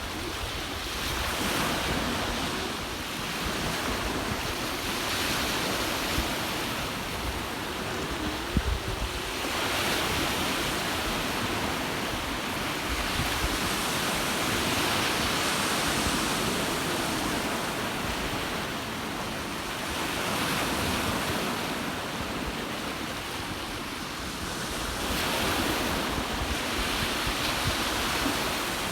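Ocean waves washing on the shore, swelling and fading about every five seconds, with wind gusting on the microphone.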